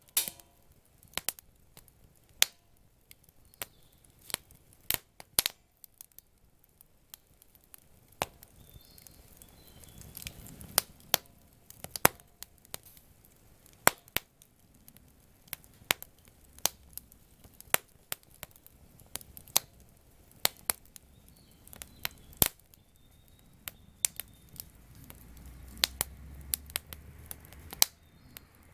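Wood campfire crackling, with irregular sharp pops and snaps, a few of them loud. A low rushing swells twice, about a third of the way in and again near the end.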